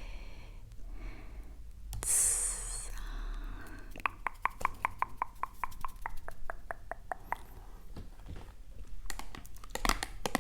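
ASMR tapping on a hard object: a brief rustle, then a run of quick, even taps at about six a second, with faster, denser tapping near the end.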